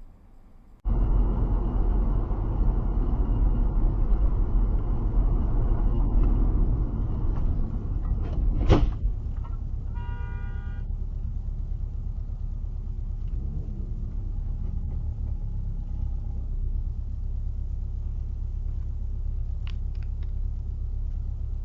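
Car road and engine rumble that starts suddenly about a second in. About nine seconds in comes a sharp bang, then a car horn sounds for about a second, and the road rumble carries on steadier and a little quieter.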